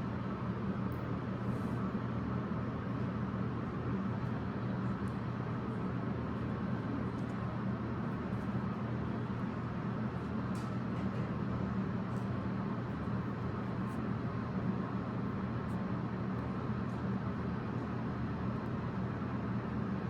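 A steady low mechanical hum with an even background hiss, broken only by a few faint clicks.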